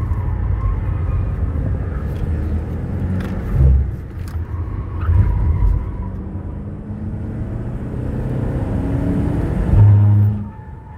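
Turbodiesel (TDI) car engine heard from inside the cabin while being driven hard, with a couple of thumps about four seconds in. Its note climbs steadily in the second half to a loud peak, then drops off sharply near the end as the throttle is lifted.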